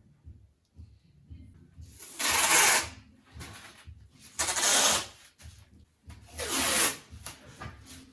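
Adhesive tape being pulled off the roll in three short rips of under a second each, spaced about two seconds apart.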